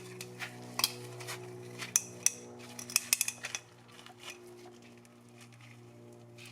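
Light clicks and clinks of small tools and parts being handled while working on the oil filter housing cap to swap its O-rings. There is a quick cluster about three seconds in, over a steady low hum.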